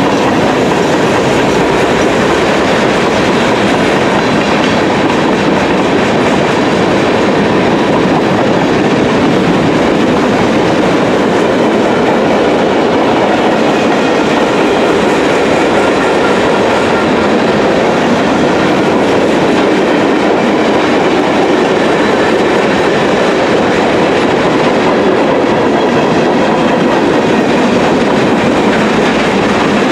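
Mixed freight train of boxcars, tank cars and covered hoppers rolling past close by: steel wheels running on the rails, loud and steady.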